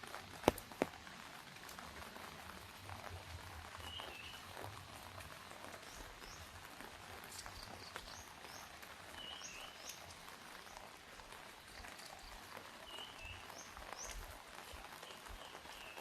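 Light rain pattering steadily, with two sharp drip-like taps in the first second. A bird calls short chirps every few seconds over it.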